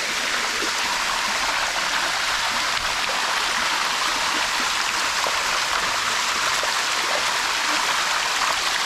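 Water of the Sticky Waterfall rushing and splashing over rock: a steady, even, hissing rush with no breaks.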